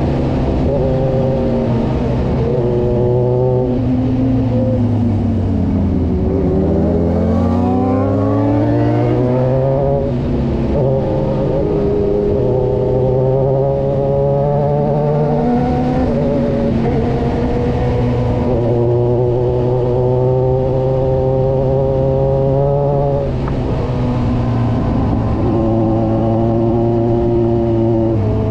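Kawasaki Versys 1000's inline-four engine running on the move. Its pitch drops a few seconds in as the bike slows, then climbs steadily as it accelerates again, and after that it holds an even cruising note with small changes in throttle.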